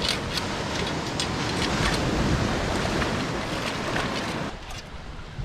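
Heavy surf washing over a rocky shore with strong gale wind buffeting the microphone, a dense rumbling roar with scattered sharp clicks; it drops off sharply near the end.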